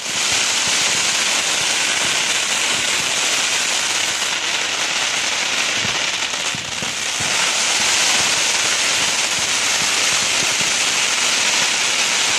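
Dense barrage of fireworks, many rockets going up and bursting overhead at once, making a loud, continuous crackle and hiss that dips briefly a little past halfway.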